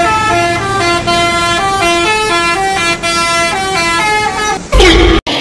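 Bus telolet horn playing a quick multi-note tune, each held note changing pitch every fraction of a second. Near the end it finishes with a louder, lower blast that slides down in pitch and cuts off suddenly.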